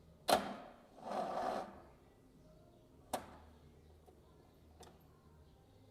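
A sharp metallic clunk, then a short rasping noise about a second in, followed by a single click and a fainter one later.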